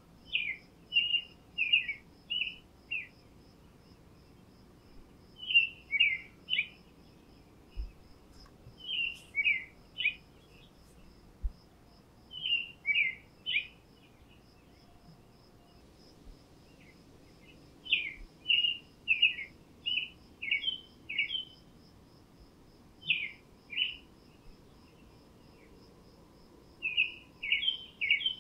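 A songbird singing short phrases of four to six quick notes, repeated every few seconds with short pauses between. Under it an insect, cricket-like, chirps steadily in an even high pulse, several times a second.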